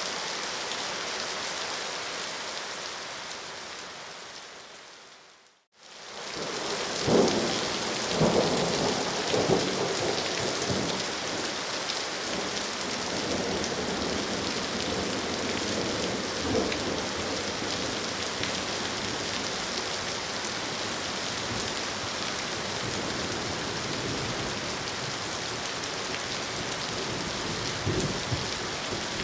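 Steady rain that fades out about five seconds in, then comes back as a thunderstorm: rain with several loud claps and rumbles of thunder a second or so after it returns, and another short rumble near the end.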